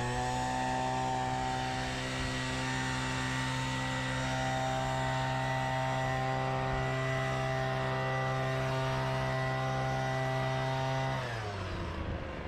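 A small engine running steadily at high speed, then dropping in pitch and winding down about eleven seconds in.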